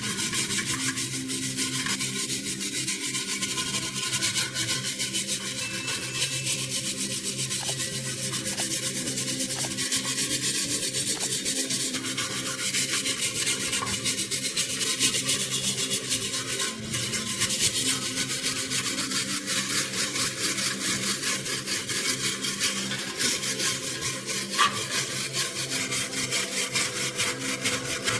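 Steady, continuous abrasive rasping on metal, made of rapid fine strokes, with a steady low hum underneath.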